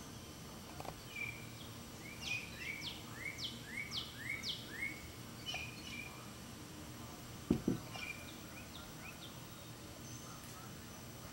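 Birds calling: a run of about six quick high notes, each falling in pitch, with scattered chirps before and after, over steady outdoor background noise. Two low thumps come in quick succession about two-thirds of the way through.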